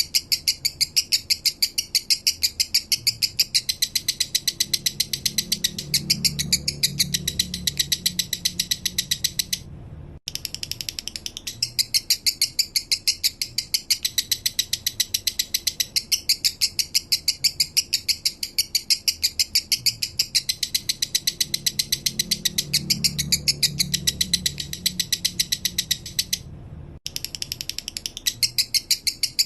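Male lovebird singing a long, fast chattering trill of sharp high chirps, about eight a second, broken off abruptly twice for a moment: the 'minor' song style that keepers use as a master song for training other birds.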